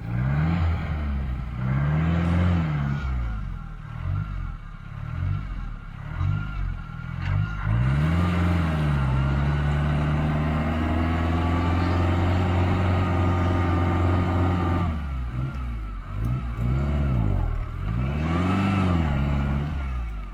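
Off-road vehicle engine revving up and down repeatedly, then held at steady high revs for several seconds, then revving in bursts again near the end, straining during a winch recovery of a vehicle stuck in a stream.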